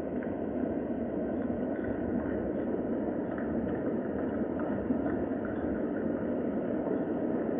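Steady rain, an even rushing hiss with faint scattered drop ticks.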